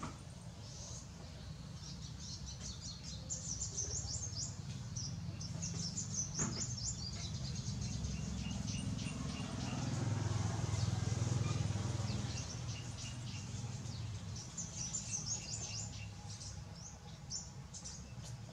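Small birds chirping in quick, high runs of short notes, over a low rumble that swells and fades around the middle.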